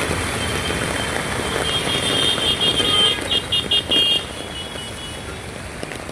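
Road traffic in steady rain, an even hiss of rain and tyres on a wet road. From about a second and a half to four seconds in, a high tone sounds and then breaks into several short quick blasts, like a vehicle horn or beeper.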